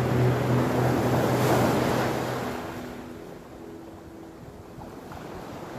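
Sea waves washing onto the shore, one swell rising and then subsiding about halfway through, with wind buffeting the microphone. A held guitar note rings out and fades over the first two seconds or so.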